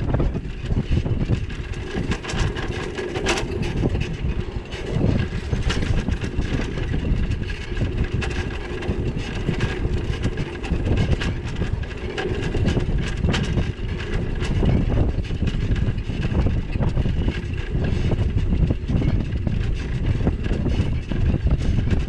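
Wind buffeting the microphone of a bike-mounted action camera on the move, a constant uneven rumble, with frequent clicks and rattles from the ride.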